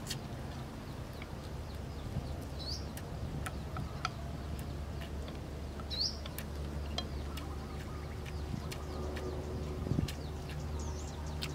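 A few short bird chirps, about three, heard over a steady low hum, with scattered small clicks and taps.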